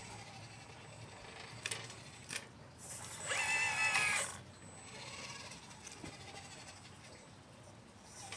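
Electric motor of a 1/12-scale Liebherr 954 model excavator whining briefly about three seconds in, a pitched whine that rises slightly and cuts off after about a second, with a couple of small clicks before it.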